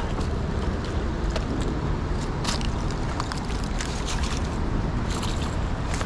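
Strong wind buffeting the microphone in a steady low rumble, with scattered short rustles and scrapes over it.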